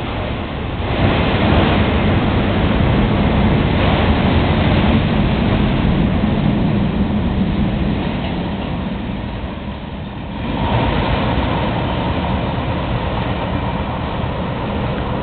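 A long freight train's cars rolling past on the rails, a steady loud noise. It swells about a second in, dips around ten seconds, then rises again with a faint steady high tone.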